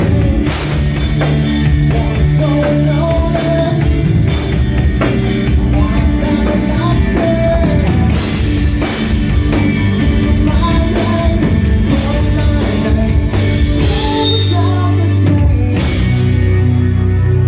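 Live rock band playing loudly: drum kit, bass and electric guitar, with a singer's melody over the top.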